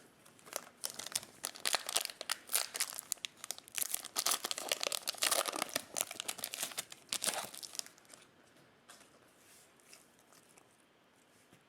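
Foil wrapper of a Topps Chrome baseball card pack crinkling and tearing as it is opened, a dense run of crackles that dies away about seven or eight seconds in.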